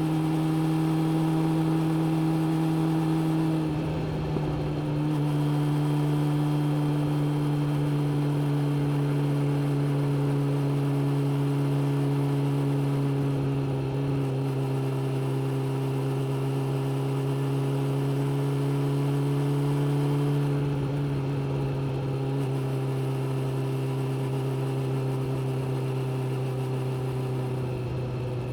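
Suzuki GSX600F inline-four engine running steadily while riding, its note stepping down a little about four seconds in and again around twenty-one seconds.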